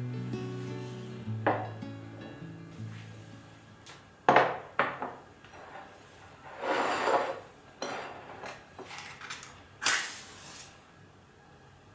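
Dishes and cutlery being handled: a few separate knocks and clinks, and a short scraping rustle in the middle.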